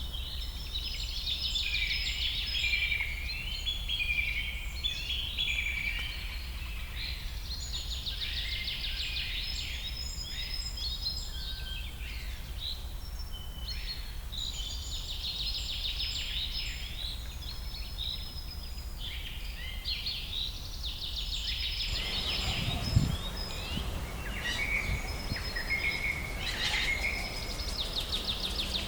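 A chorus of many small birds singing and chirping over one another, over a steady low rumble. About two-thirds of the way through, the background becomes noisier and there is a single thump.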